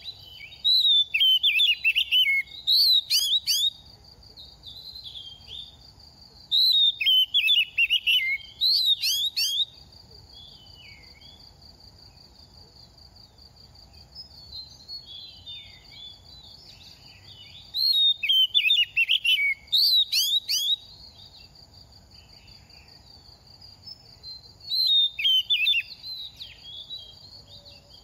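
Oriental magpie-robin, a bird in moult, singing in four loud bursts of rapid, varied whistled phrases, each about three seconds long, with quieter calls in between.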